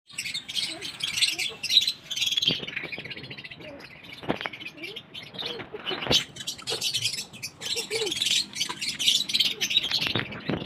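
Many small birds chirping and twittering busily, with a few sharp clicks among them.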